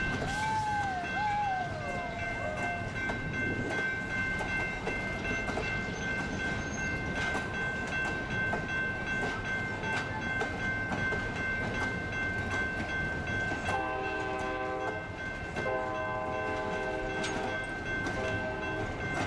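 Passenger coaches rolling past with steady wheel-on-rail noise and a constant high ring. From about 14 s in, the EMD FL9 diesel locomotive's multi-note air horn sounds two long blasts, a short one and a long one: the standard grade-crossing signal.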